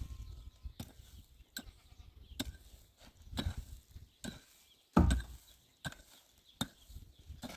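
A steady series of sharp knocks, about one every 0.8 seconds, the heaviest about five seconds in.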